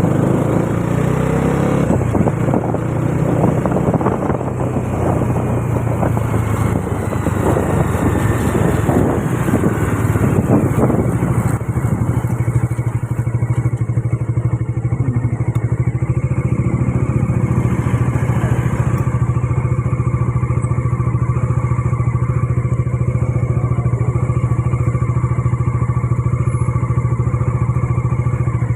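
Bajaj Dominar 400's single-cylinder engine. For about the first twelve seconds it runs under a rough rush of noise with a slowly falling pitch, as on a bike slowing down; it then settles into a steady idle.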